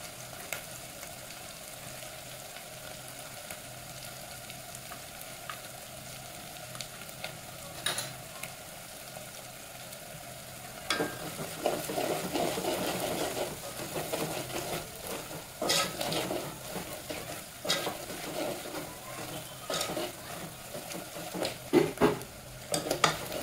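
Onions, turmeric and red chilli powder sizzling in oil in an aluminium pressure-cooker pot. About eleven seconds in, a metal spoon starts stirring and scraping the masala, louder and rougher, with several sharp clicks of the spoon against the pot.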